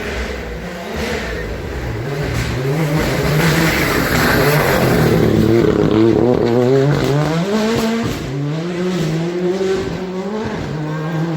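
Rally car engine revving hard and shifting up through the gears as the car passes, the pitch climbing and dropping back several times; loudest about four to six seconds in.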